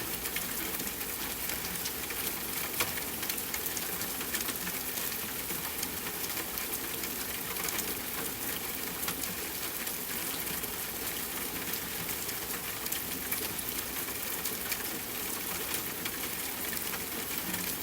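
Steady rushing water noise, dense with fine crackling ticks like drops.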